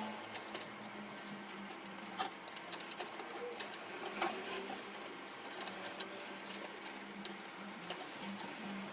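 Canon MF4018 laser printer running, a steady motor hum with scattered sharp clicks.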